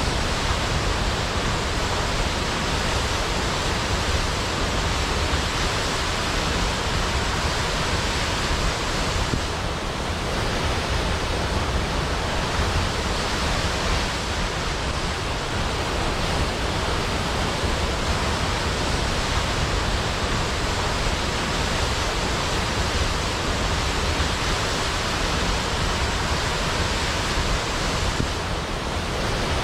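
Waterfall rushing: a steady, dense roar of falling water with no breaks.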